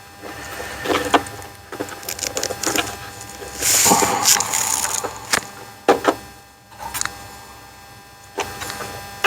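Bench work on a plastic instrument cluster housing: scattered clicks, knocks and scraping as the T10 Torx screws are backed out of the back and the plastic parts are handled. There is a louder stretch of scraping about four seconds in and sharp plastic clicks around six seconds in.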